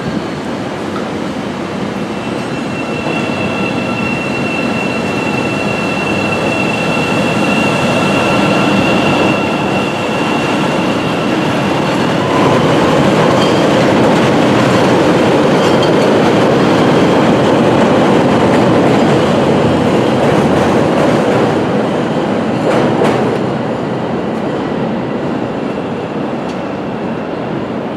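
Chicago 'L' rapid-transit train running past on the tracks. Its wheels give a steady high squeal for several seconds, then the rumble grows loudest midway and eases off toward the end.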